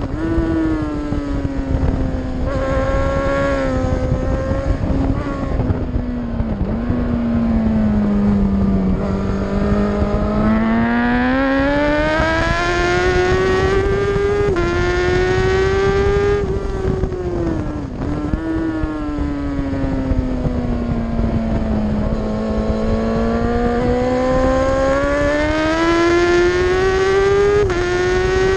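Racing superbike engine at high revs, heard from on board: the note sinks slowly as the bike slows for corners and climbs again under acceleration, twice over, with brief drops in pitch about a third of the way in and again past the middle.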